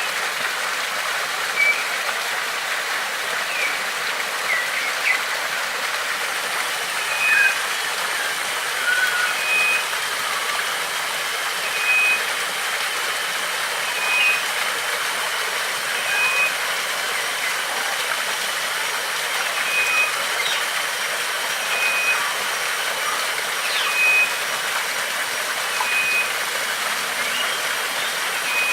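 Steady rush of a stream or waterfall. Over it a bird repeats a short high note about every two seconds, with a few other brief chirps scattered in.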